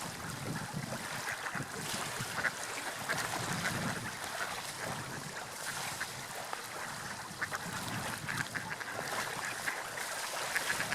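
Water lapping and splashing in small waves, with many small splashes over a low wash.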